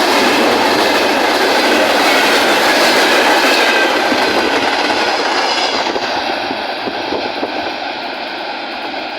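Freight train wagons rolling past, their wheels clattering over the rail joints. The sound fades and grows duller over the second half as the train moves away.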